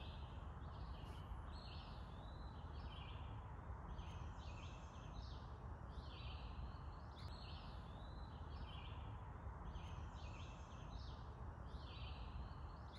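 Songbirds singing, one short phrase after another with hardly a pause, over a steady low background rumble.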